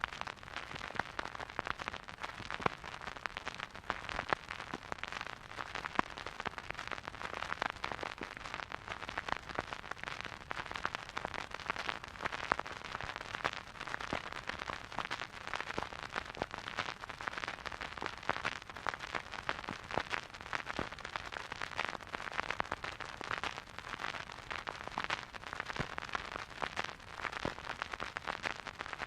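Vinyl record crackling as the stylus plays a silent groove: a dense, steady stream of small clicks and pops over a soft hiss, with no music.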